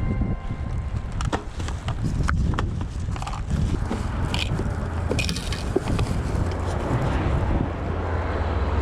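Irregular clicks, knocks and rustling from litter picking in roadside undergrowth, over a steady low rumble of road traffic.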